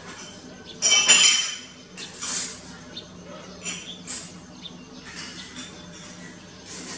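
Short, harsh, scratchy bird calls in about four bursts, the loudest about a second in.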